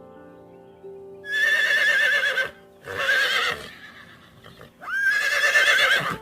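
Horse whinnying three times, each a loud quavering call, the last starting with a rising glide. Soft background music sits under it at the start.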